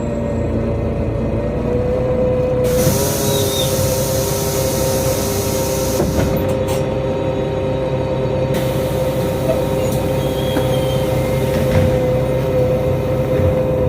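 A NefAZ-5299 city bus heard from inside as it rides, its engine and drivetrain running with a steady whine. Two stretches of loud hiss, each a few seconds long, rise over it.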